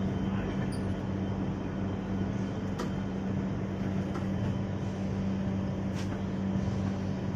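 Steady low hum and running rumble inside an Indian Railways express passenger coach as the train pulls out of the station, with two brief clicks.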